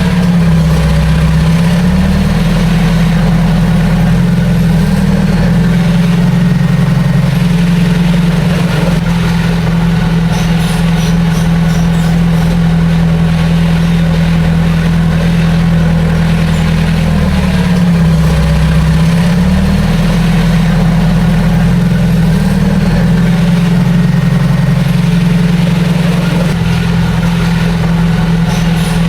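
Bulldozer's heavy diesel engine running steadily and loudly, its speed dipping briefly and recovering twice, near the start and about two-thirds of the way through.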